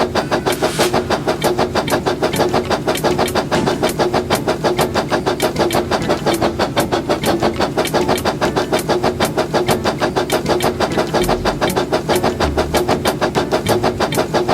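Labo brick toy steam train running: a steady hum with rapid, evenly spaced clicks, about six a second.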